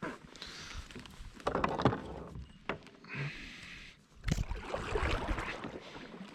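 Water splashing and sloshing around a fishing kayak, in uneven washes, with a few sharp knocks.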